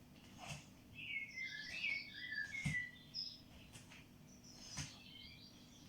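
Bird chirping and twittering in quick runs of short notes, with soft thuds roughly once a second from steps on the floor.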